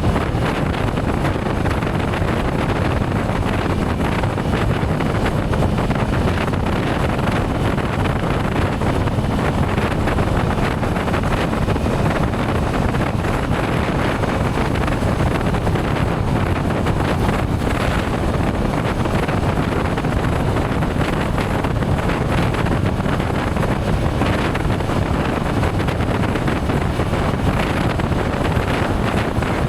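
Wind rushing steadily over the microphone of a moving motorcycle, mixed with its engine and road noise, unchanging throughout.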